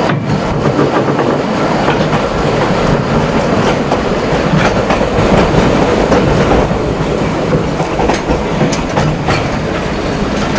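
Narrow-gauge train running along the track: a steady rumble and rattle with wheels clicking over rail joints.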